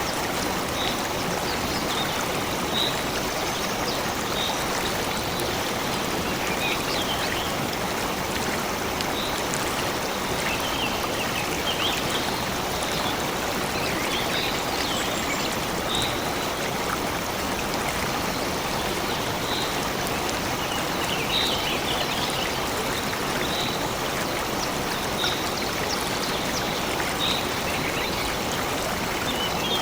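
Stream water running steadily, with a bird repeating short high chirps every second or two over it.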